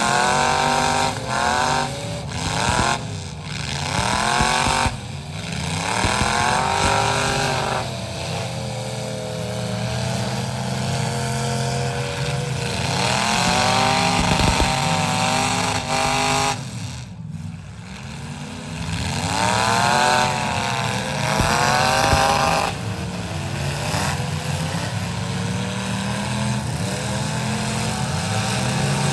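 Several full-size pickup and SUV engines in a demolition derby, run hard with repeated revs that climb in pitch for one to three seconds at a time over a steady low engine drone.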